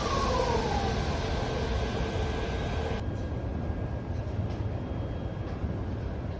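Electric train slowing down: the traction motor whine falls in pitch and settles into a steady tone over low running rumble. About three seconds in, the hiss and the tone cut off abruptly, leaving a quieter rumble.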